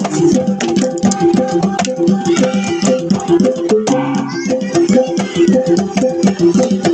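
Sumbanese gong ensemble playing a fast, interlocking rhythm of pitched gong strokes on a few fixed notes, with sharp percussive strikes among them.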